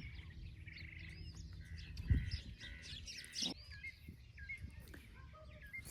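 Birds chirping and trilling in the background, many short repeated calls. A dull thump about two seconds in is the loudest single sound.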